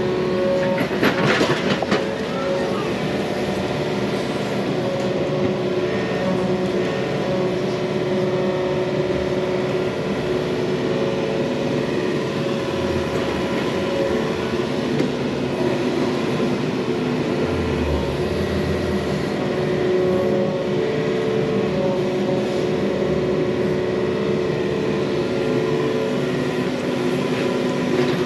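Yanmar mini excavator's diesel engine running under load, its hydraulics working with steady tones that rise and fall as it digs through an earthen pond dam. A short clatter about a second in.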